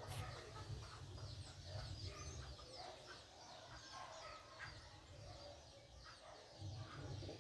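Faint birdsong: many quick chirps from small birds, with chickens clucking among them.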